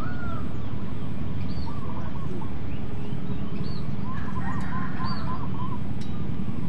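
Birds calling in short phrases of quick arched notes, repeated several times, with a few higher chirps in between, over a steady low rumble.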